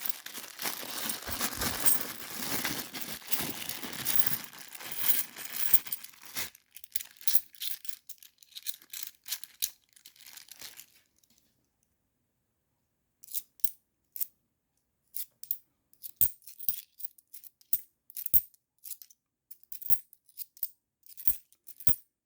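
50p coins being slid and shuffled about for about six seconds, followed by scattered single clicks as coins are set down one at a time.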